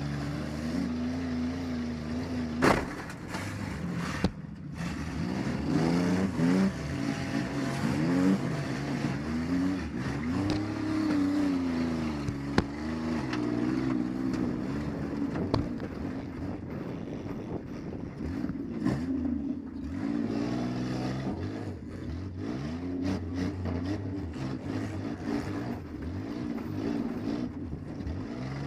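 Minivan engine revving up and down in repeated swells as it is driven in a demolition derby, heard from inside the van. A few sharp bangs break in, one near the start, another about a second later and one mid-way.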